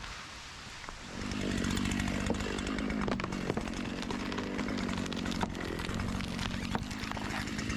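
Chainsaw engine coming in about a second in and running at a steady high pitch, with scattered sharp clicks over it.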